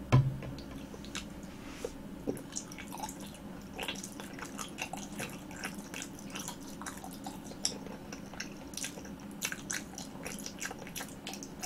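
Close-miked chewing of a soft green-grape jelly ball: a run of many small wet, sticky mouth clicks and smacks, with a short low thump right at the start as the bite is taken.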